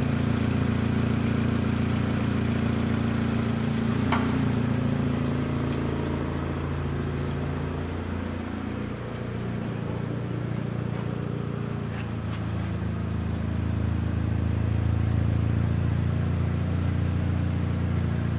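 2008 Mitsubishi Lancer GTS's 2.0-litre four-cylinder engine idling steadily. Its note dips in pitch and level briefly about halfway through, then steadies again, with a few faint clicks.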